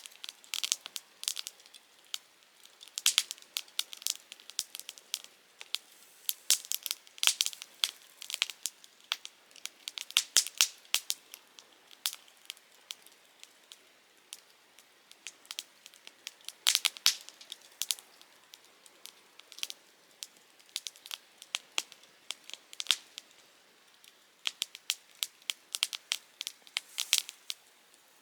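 Softwood firewood crackling and popping as it burns in a Picogrill 398 fire stand, with sharp, irregular pops, clusters of several at a time, over a faint hiss.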